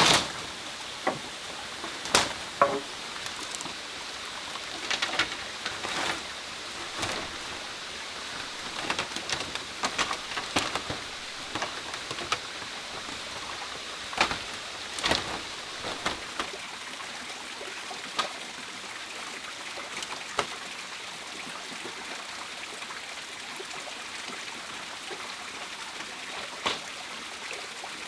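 Steady rush of flowing stream water, with scattered sharp clicks and knocks that come thick in the first half and thin out after.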